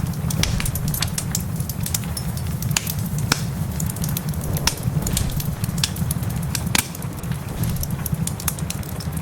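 Wood fire in a fireplace crackling, with irregular sharp snaps and pops, a few louder than the rest, over a steady low rumble.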